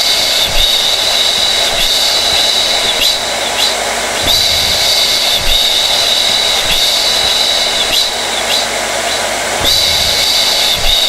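Hair dryer running steadily: an even rush of air under a high motor whine that wavers and dips briefly a few times.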